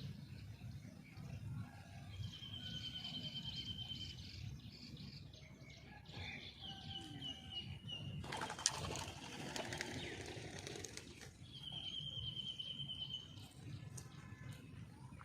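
Birds calling: a high, rapidly pulsed trill twice, with scattered short chirps between, and a brief burst of rustling noise with a sharp click about halfway through.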